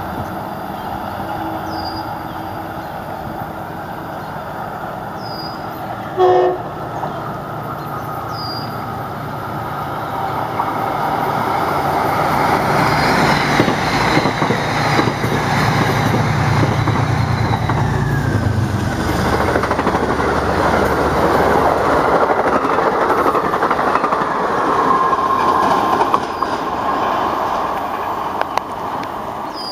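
Metro-North push-pull commuter train passing through a station: one short horn blast about six seconds in, then the rumble and clatter of wheels on rail building up as the coaches go by, loudest in the second half, with a brief steady wheel squeal near the end.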